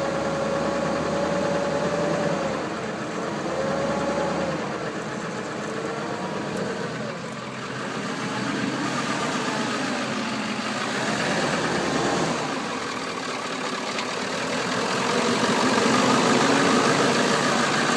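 Ford 7.3 L Powerstroke V8 turbo-diesel idling cold with a heavy lope, its speed and loudness rising and falling every few seconds. This rough, uneven idle comes from a cold start on a bad glow plug relay.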